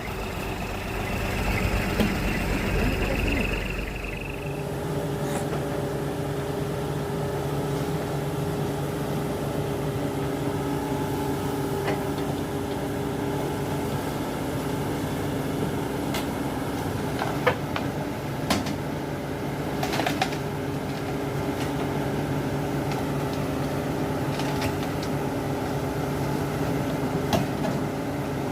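Heavy diesel engine running steadily. For the first four seconds there is a deeper rumble with a thin high whine over it, after which it settles to an even hum, broken a few times by short clicks.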